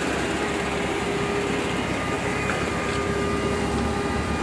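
Datsun 240Z's turbocharged straight-six, a 1983 280ZX turbo block and head run with a blow-through carburetor, idling steadily.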